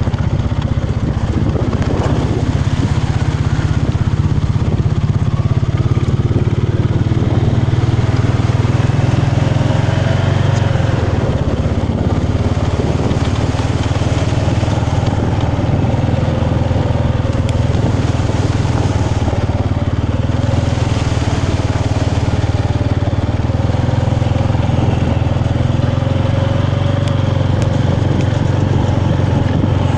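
Small motorbike engine running steadily as it is ridden, with no break or change in level.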